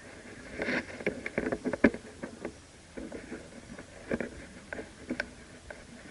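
Irregular rustling and crackling with scattered sharp clicks and scrapes, from a player moving through dry brush and handling gear. The loudest crack comes just under two seconds in.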